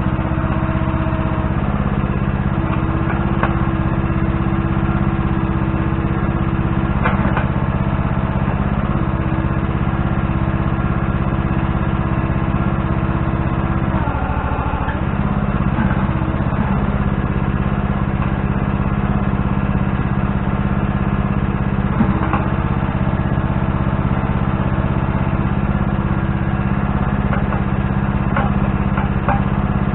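Engine of a piece of digging equipment running steadily, with a brief change in pitch about halfway through, as if it takes load or is throttled.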